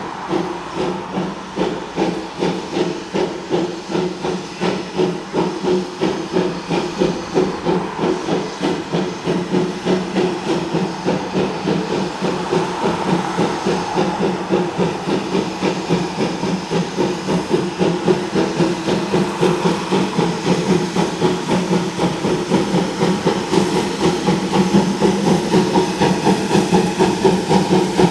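Steam locomotive working, its exhaust chuffing in a steady rhythm of about two beats a second with a hiss of steam, growing louder toward the end.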